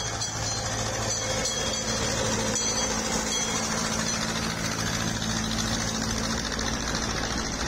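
Small narrow-gauge train running along the track: a steady rolling noise with a low hum and a few light ticks early on.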